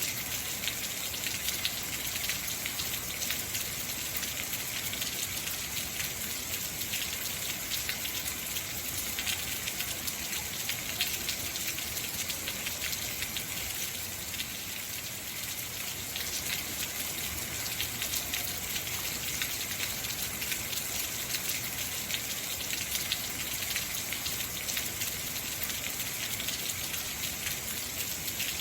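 Heavy rain falling steadily, a dense hiss of drops pattering on surfaces, easing slightly for a moment about halfway through.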